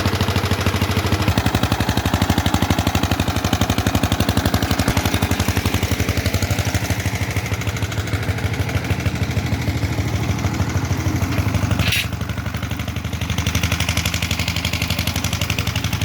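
Diesel generator engine running steadily with rapid, even firing beats. About twelve seconds in there is a sharp click and the engine sound drops slightly in level.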